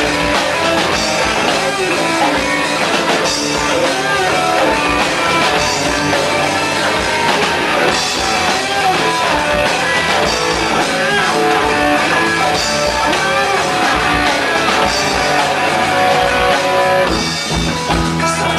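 Instrumental break of a rock song: a guitar plays a melodic line over a drum kit, with no singing.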